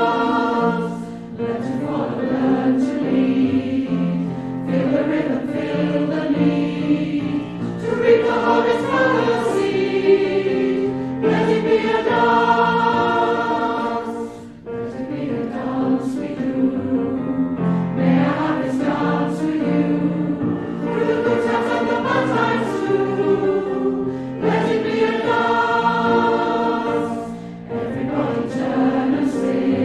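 Congregation singing a hymn together, line after line, with brief dips between phrases.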